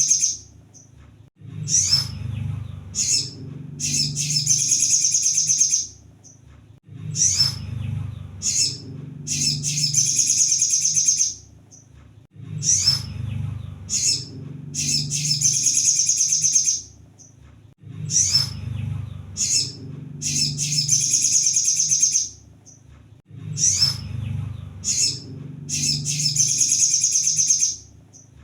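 Crimson sunbird song in a repeating loop: a few short, sharp high chirps followed by a long, rapid, high-pitched trill of about two and a half seconds, the pattern recurring roughly every five and a half seconds. A low hum runs underneath.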